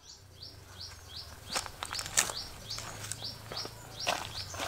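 A small bird calling a short, rising chirp over and over, about three times a second, with a few sharp clicks in between.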